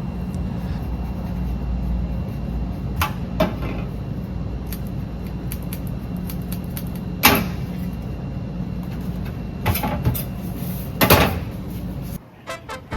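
Steady low hum of an idling vehicle engine, with a few sharp knocks and clicks over it; the hum cuts off about a second before the end.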